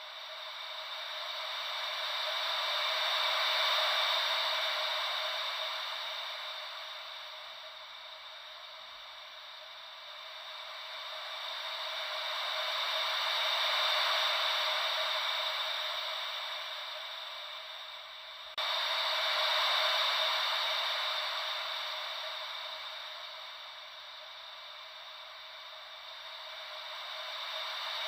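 Ocean-wave white noise: a hiss with no deep rumble that swells and fades about every ten seconds, like gentle waves washing in and drawing back. About two-thirds of the way through, the level jumps up suddenly.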